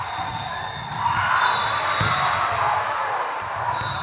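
Gym noise of a volleyball match: a steady hubbub of players' and spectators' voices, with sharp ball hits about one and two seconds in.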